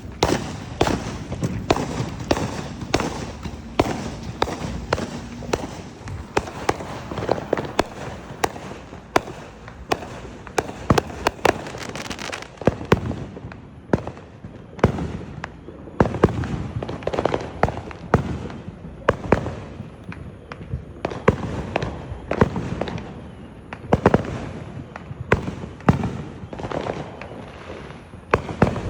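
Fireworks going off in a dense, irregular string of bangs and crackles, some louder blasts followed by a short echo.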